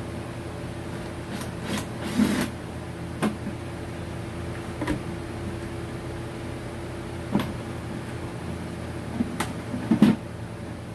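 Scattered light knocks and clicks, about eight of them, the loudest about two seconds in and near the end, over a steady mechanical hum.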